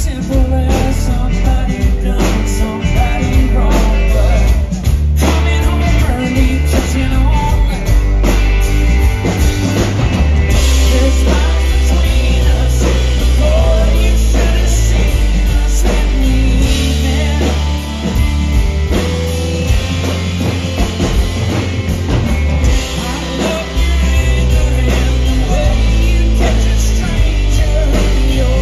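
Live rock band playing loudly, with drum kit, electric guitars and heavy bass.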